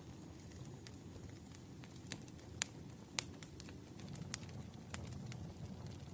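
Wood fire burning: sharp irregular crackles and pops over a steady low rumble of the flames.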